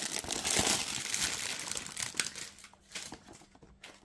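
Packaging crinkling as a trading-card booster box is unwrapped and handled: dense crackling that thins out to a few scattered clicks over the last second or so.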